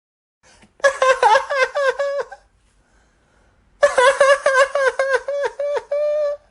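A girl crying in high-pitched, rapid stuttering sobs, in two bouts. The second bout ends in a short held wail.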